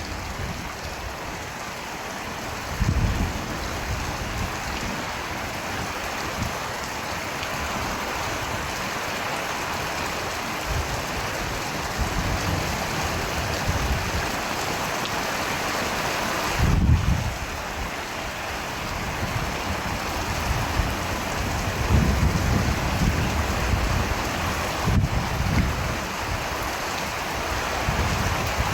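Steady rain falling, an even hiss throughout, with short low rumbles now and then, about four times.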